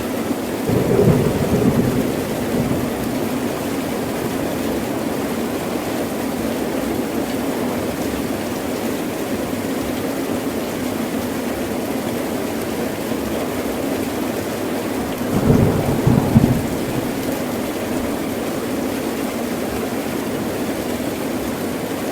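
Heavy rain falling steadily, with low rumbles of thunder about a second in and again about two-thirds of the way through.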